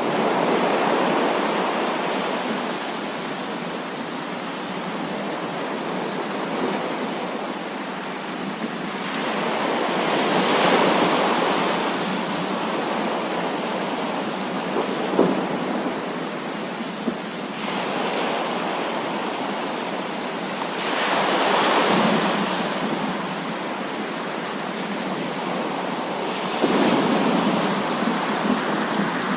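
Heavy rain falling steadily, with thunder rolling in and swelling several times, and a couple of short sharp cracks in the middle.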